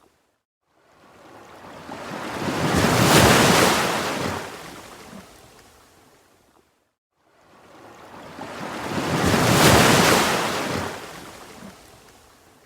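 Ocean waves, two in turn: each swells up to a loud rush of surf and slowly fades. Between them the sound drops to complete silence for about half a second, once right at the start and once about seven seconds in.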